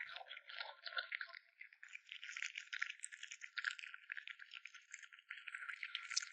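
Cat eating meat close to the microphone: a fast, dense run of small wet chewing and smacking clicks, with short pauses.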